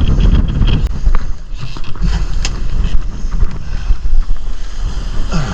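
Strong wind buffeting the microphone in a loud low rumble, over choppy sea around a boat drifting before the wind, with a few scattered knocks.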